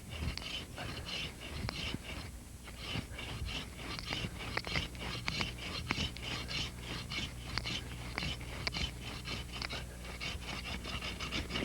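Hand pruning saw cutting through a black walnut branch in a steady rhythm of back-and-forth strokes, with a brief pause about two seconds in. This is an angled pruning cut removing a limb from the trunk.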